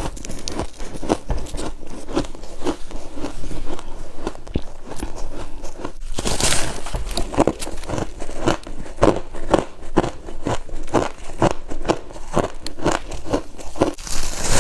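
Crunchy freezer frost being chewed with steady crunches, about two a second, and a louder bite about six seconds in and again near the end.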